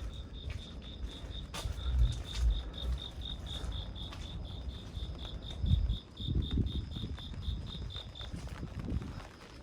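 A cricket chirping in an even pulsed trill, about five chirps a second, that stops shortly before the end, over low dull thumps of footsteps.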